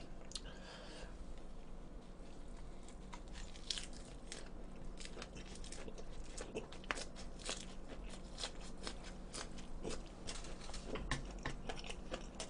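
A man chewing a mouthful of lettuce wrap filled with cold sliced pig's trotters, garlic and chili pepper, close to the microphone. Many short wet clicks come from the mouth.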